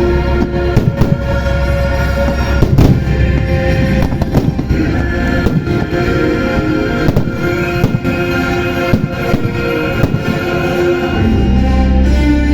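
Fireworks bursting over a loud show soundtrack of music: many sharp bangs and crackles scattered throughout, with the music's bass swelling near the end.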